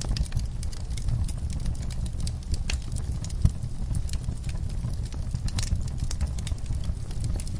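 Wood fire crackling in a fireplace: irregular sharp pops and snaps over a steady low rumble, with one louder pop about three and a half seconds in.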